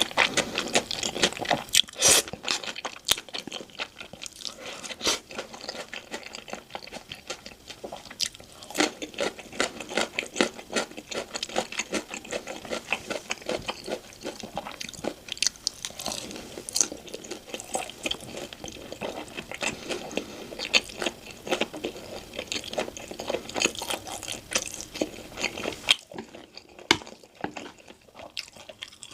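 Close-miked eating sounds: steady crunching and chewing of crisp food, with many sharp bites. The sounds thin out and grow quieter in the last few seconds.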